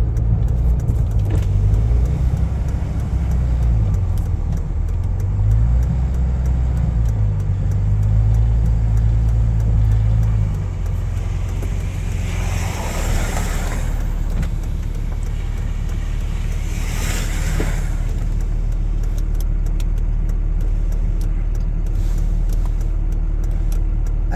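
Pickup truck engine running while the truck creeps along a slick snowy road, its note rising and falling for about ten seconds before settling into a steady lower drone. There are two brief hissing swells partway through.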